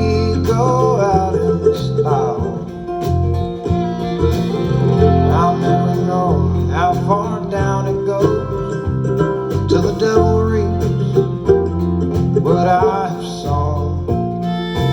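An acoustic country band playing an instrumental break, with plucked guitar and banjo over a steady, repeating bass line and a melody that slides in pitch.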